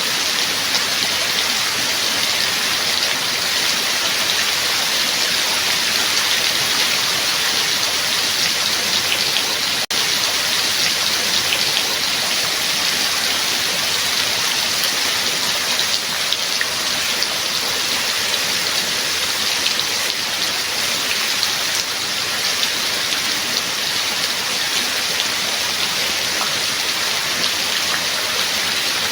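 Steady rain: a dense, even hiss of falling water with fine scattered drop ticks, briefly dipping for a moment about ten seconds in.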